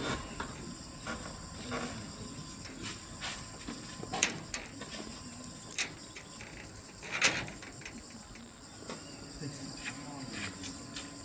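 A steady high insect trill, with scattered light knocks and clatter; the two loudest knocks come about four and seven seconds in.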